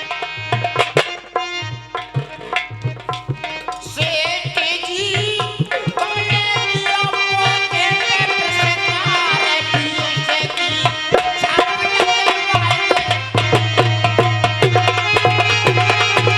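Instrumental interlude of Dhola folk music: a hand drum playing a quick rhythm under a sustained melody line, the low drum sound growing fuller and steadier about two-thirds of the way through.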